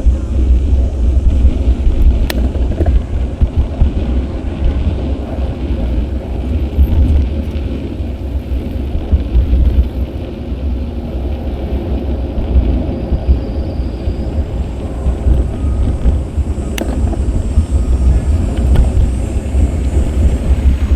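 Wind buffeting an action camera's microphone during a bicycle ride: a steady, heavy low rumble, with two sharp clicks, one about two seconds in and another later on.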